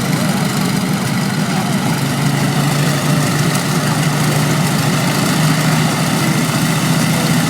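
Aeroplane engine running steadily, a deep even hum with no change in speed.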